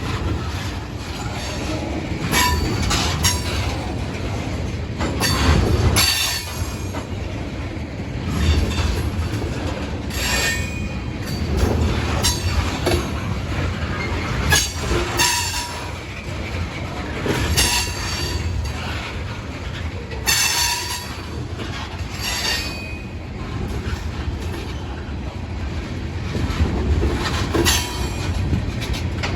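Freight train of ethanol tank cars rolling past with a steady low rumble. Wheels squeal in short high rings and clack over rail joints every second or two.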